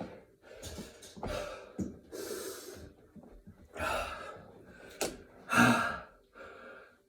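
A man gasping and panting hard for breath between burpee reps, worn out from the exertion. The breaths come roughly once a second, louder ones about four and five and a half seconds in.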